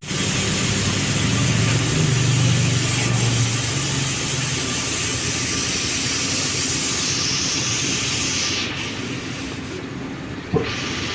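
Steady hiss of rushing air over a low engine hum from the car, with a sharp click about ten and a half seconds in.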